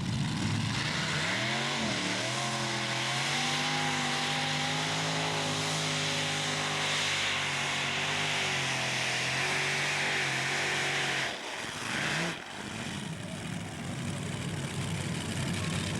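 Pulling tractor's engine revving up and running hard at full power through a pull of about ten seconds, then cutting off suddenly, with one short blip of revs about a second later.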